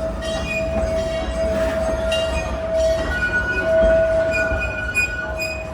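Scenic railway train's steel wheels squealing steadily against the rails over a running rumble. A second, higher squeal joins about halfway through and drops out shortly before the end.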